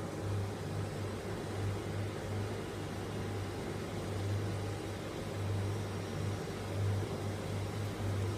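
Girbau front-loading drum washing machine running mid-cycle: a steady low motor hum that swells and fades unevenly, over a constant whirring haze.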